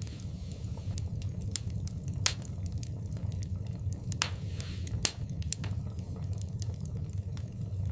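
Wood fire in a fireplace crackling, with scattered sharp pops over a steady low rumble of the flames. Two louder pops come about two and five seconds in, and there is a short hiss just after four seconds.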